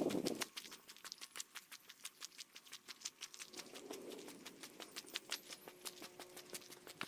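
Footsteps of a walker on a trail, sped up to triple speed so the steps come as a fast run of sharp ticks.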